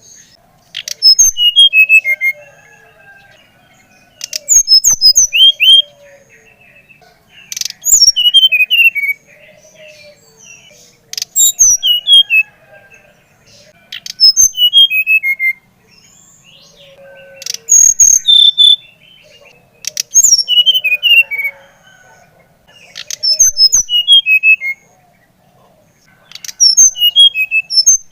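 An SRDC (sikatan rimba dada coklat) songbird singing in loud, regular phrases, about one every three seconds, each a quick run of clear whistled notes falling in pitch. A fainter, lower warbling carries on between the phrases.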